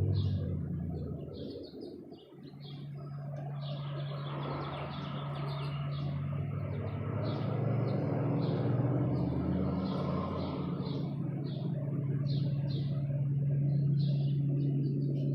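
Small birds chirping over and over in short, irregular notes, several a second at times. Under them runs a steady low hum with a rushing background noise.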